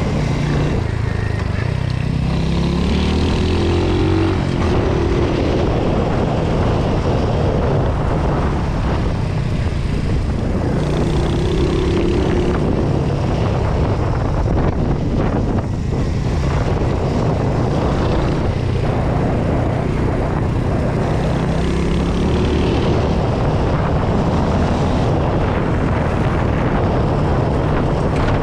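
Royal Enfield Hunter 350's 349 cc single-cylinder engine running through its stock silencer, the exhaust note climbing in pitch and dropping back several times as the revs rise and fall.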